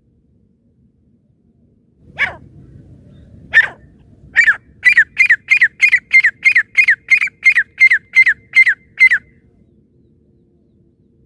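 Francolin (teetar) calling: two single sharp calls, then a fast, even series of about fourteen repeated calls, roughly three a second, each a short falling note.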